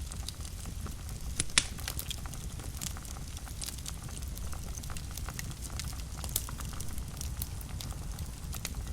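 Wood fire burning in a fireplace, with a steady low rumble of the flames and irregular sharp crackles and pops, the loudest pop about one and a half seconds in.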